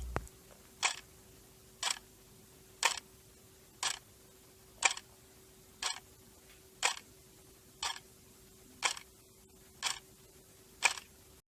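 A clock ticking once a second, about a dozen even ticks over a faint steady hum, stopping abruptly near the end.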